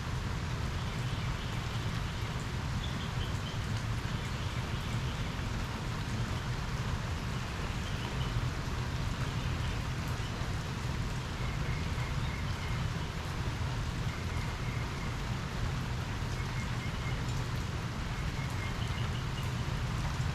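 Steady rain falling during a thunderstorm, an even hiss with a low rumble beneath it. Faint short chirps sound now and then over the rain.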